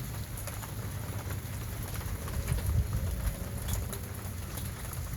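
Rain falling steadily, with many separate drops ticking close by over a low, uneven rumble.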